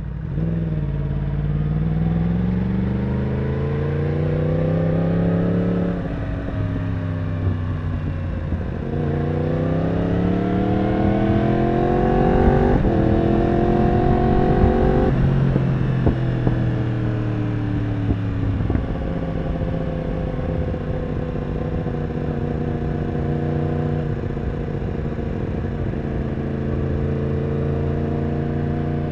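Yamaha R1 sport bike's inline-four engine accelerating through the gears, its pitch rising in each gear and dropping at the shifts, about six and about thirteen seconds in. From about nineteen seconds in it holds a steady pitch at cruising speed.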